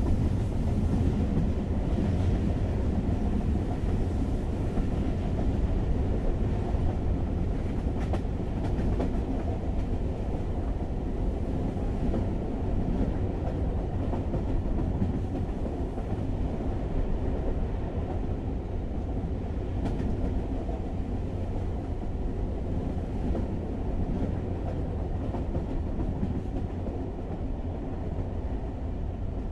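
Steady low rumble of a moving train heard from inside the carriage, with an occasional faint click from the wheels.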